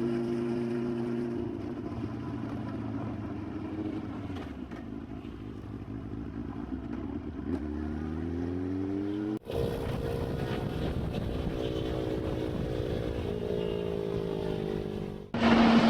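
Motorcycle engine running at a steady speed, then rising in pitch as it accelerates about eight seconds in. The sound cuts off abruptly about nine seconds in, to another steady engine note, and changes abruptly again near the end.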